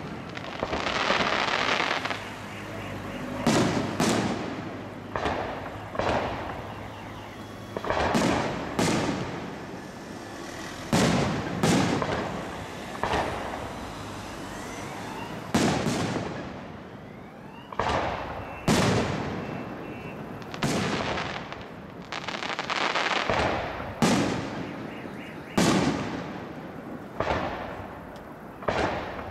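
Aerial firework shells bursting in quick succession, a sharp bang every one to two seconds, each followed by a rolling echo, with a stretch of crackling in the first couple of seconds.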